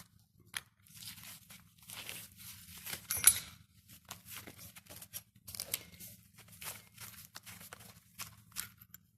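Unscrewing the lower jet nut from a Chaika ML-20 outboard motor's carburettor by hand: irregular metallic scrapes and clicks of tool and parts, with one sharp metal clink about three seconds in.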